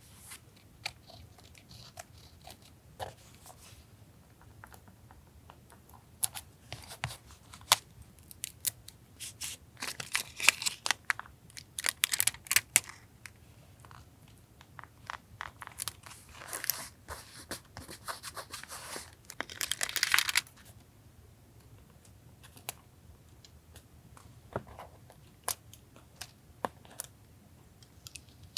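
Paper being torn and handled at a desk, with scattered light taps and clicks and two longer stretches of tearing and rustling in the middle.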